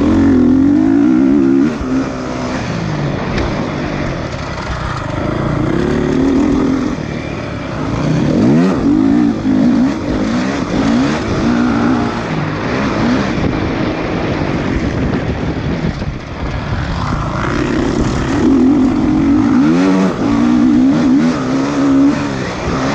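Motocross motorcycle engines revving, the pitch rising and falling as the throttle opens and closes. The loudest revving comes near the start, again around six to nine seconds in, and from about seventeen to twenty-two seconds.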